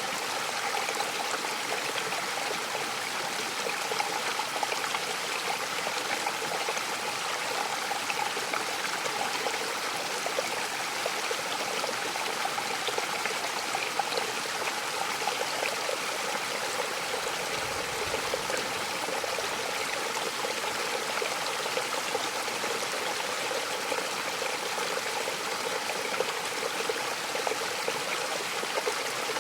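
Mountain waterfall: a steady, even rush of falling water with a faint trickling splash over it.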